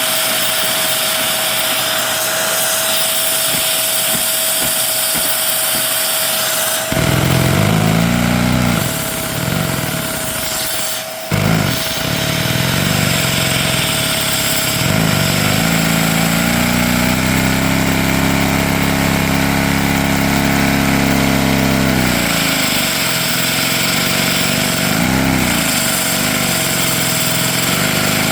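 A vacuum cleaner runs with a steady whine and rush of air, driving a Lego inline-two vacuum engine that has no throttle body or flywheel. About seven seconds in, the engine's low mechanical running starts, its speed rising and falling, then holding fast and steady for several seconds in the middle before surging up and down again.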